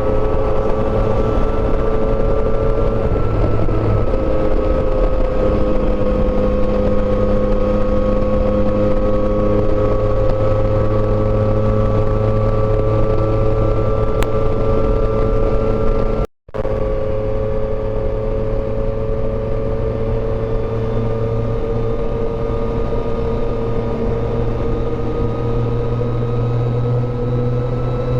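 Yamaha Tracer motorcycle engine at steady highway cruise, its pitch slowly rising, over road and wind noise. The sound drops out for a split second about sixteen seconds in.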